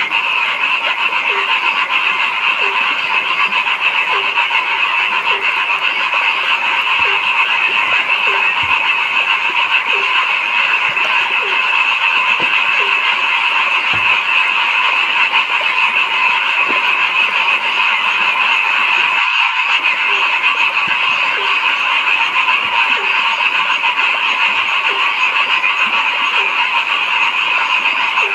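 A dense chorus of frogs calling over one another in a steady wall of sound, with one lower-pitched croak repeating about every three-quarters of a second. The sound cuts out briefly about 19 seconds in.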